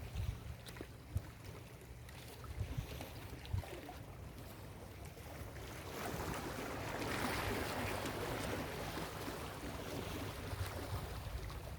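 Ocean waves on a beach: one wave's wash swells about halfway through and fades away again, over wind buffeting the microphone.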